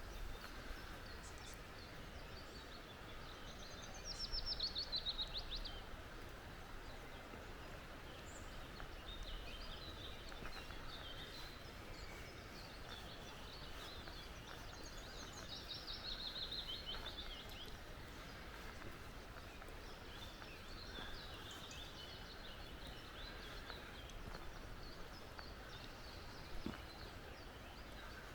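Forest birds calling over a steady rush of flowing creek water. A rapid trill of high notes falling in pitch is loudest about four seconds in, a similar one comes around sixteen seconds, and short chirps are scattered between.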